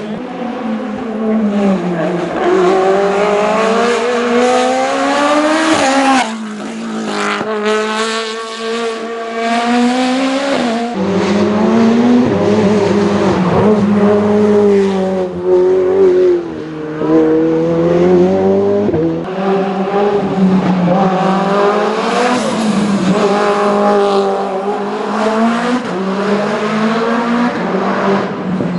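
Race car engine at full throttle, its pitch climbing and then dropping sharply at each gear change, several times over, as it drives up a hill-climb course.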